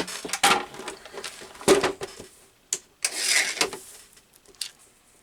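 Paper being handled on a work surface: rustling and sliding of magazine or wallpaper pieces, with a few sharp taps, the longest rustle about three seconds in, then it trails off.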